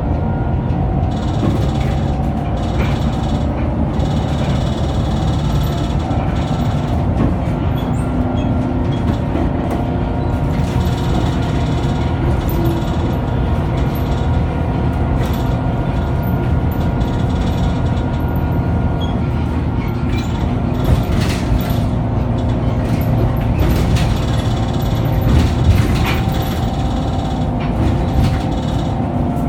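Scania K94UB tri-axle double-decker bus under way: a steady engine and drivetrain drone with a few whining tones over it, and scattered knocks and rattles, a few louder ones in the last third.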